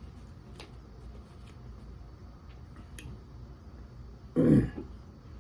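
A few faint clicks, then about four seconds in a man makes one short, loud throaty vocal noise.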